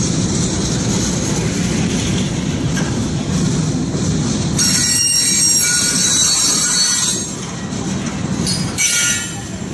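Freight cars rolling slowly over the rails with a steady low rumble. About four and a half seconds in, the wheels give a high metallic squeal for a couple of seconds, and a shorter squeal comes near the end.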